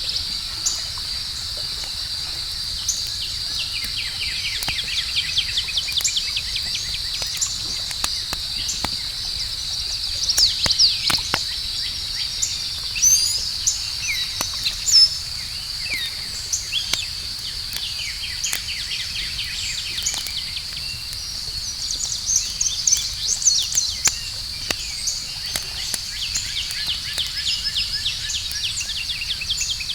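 Campfire crackling, with scattered sharp pops, over a steady high drone of night insects. Quick runs of chirps come and go on top, loudest around the middle and again near the end.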